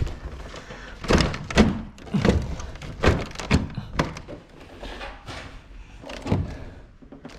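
Irregular dull thunks and knocks, about a dozen, from an air conditioner indoor unit's plastic housing and piping being handled and bumped against the wall and mounting plate while the unit is hooked on. The knocks are densest and loudest in the first four seconds and thin out after.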